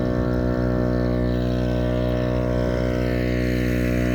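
An engine running steadily at constant speed, an even unchanging hum with no revving.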